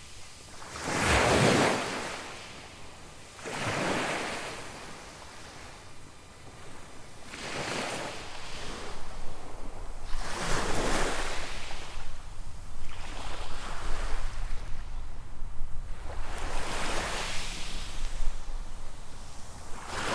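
Small waves breaking and washing up a sandy beach, a swell about every three to four seconds. Wind buffets the microphone with a low rumble in the second half.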